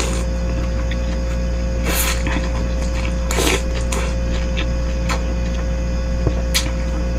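A person eating bakso soup with rice: a few short chewing and breathing noises about two, three and a half and six and a half seconds in, over a steady low hum.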